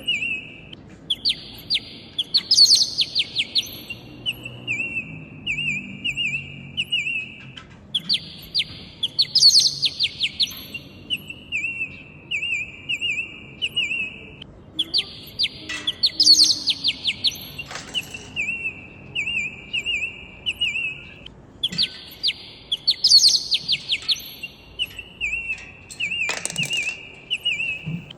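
Pet parrots chirping: a run of short, evenly spaced chirps, then a burst of rapid high trills, with the same phrase repeating about every seven seconds. A few short thumps or rustles come in between.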